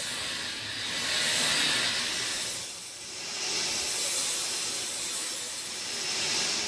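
Steady rain falling, a dense hiss that swells and eases every couple of seconds.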